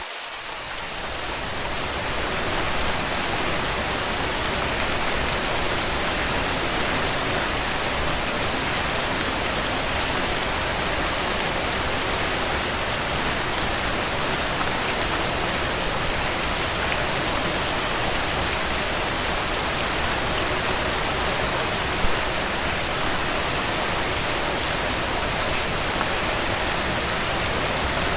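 Steady rain falling on a tent, a dense even patter that dips briefly at the start and then holds level. A single sharp click stands out about two-thirds of the way through.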